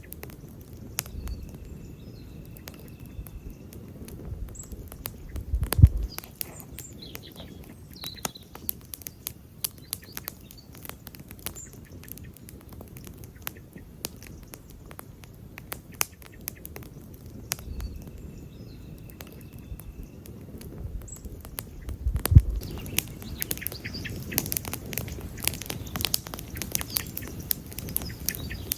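Wood campfire crackling and popping in many small sharp snaps over a low rumble of flames, with two low thuds about 6 seconds and 22 seconds in.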